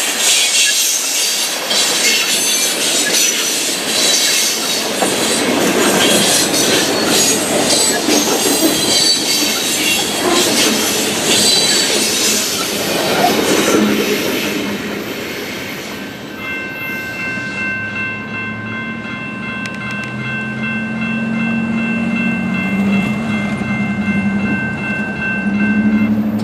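Loaded ballast train's cars rolling over the crossing, with wheel clatter and squeal. About two-thirds of the way through, the rolling noise eases and the crossing's Siemens electronic bell is heard ringing steadily over a low rumble.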